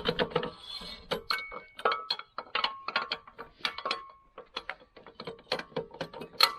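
Irregular metallic clinking and clattering, about two or three sharp knocks a second, some with a brief ringing tone, as hard objects are handled and knocked together.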